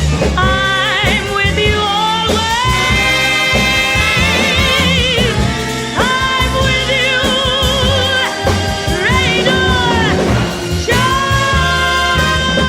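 A woman singing a ballad with wide vibrato and long held notes, backed by an orchestra.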